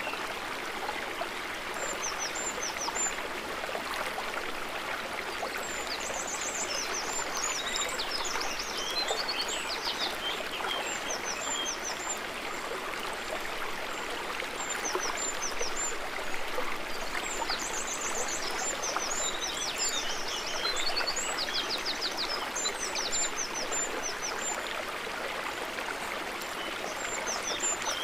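Water trickling and babbling steadily, with small birds chirping over it in repeated quick high notes and short trills.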